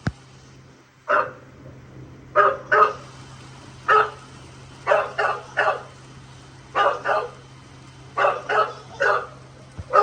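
English bulldog barking repeatedly: about a dozen short, sharp barks in groups of one, two or three.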